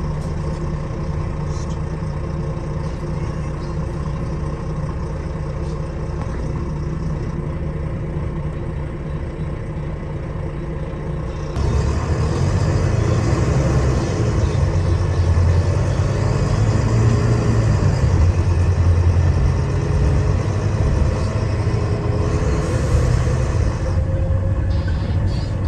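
Diesel engine of a Wright Gemini 2 double-decker bus, heard from inside the bus, running steadily. About halfway through it suddenly gets louder and heavier as it comes under hard throttle, and its note climbs slowly near the end.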